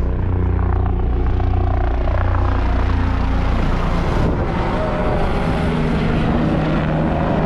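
Helicopter flying low overhead, its rotor and engine loud and steady, the sound shifting about four to five seconds in as it passes.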